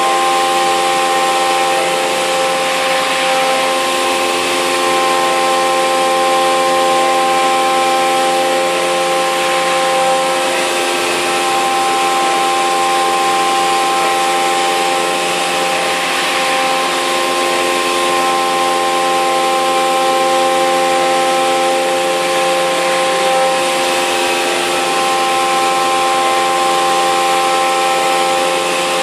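CNC mill trochoidal-milling 6082 aluminium with a 3-flute carbide end mill at 8,000 rpm, cutting dry: a steady whine of several tones over a cutting hiss, unchanging throughout.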